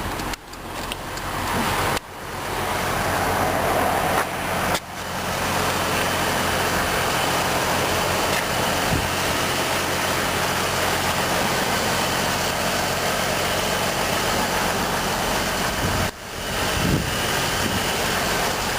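2003 GMC Envoy's engine idling steadily, a low even hum under a broad hiss; the sound dips briefly a few times.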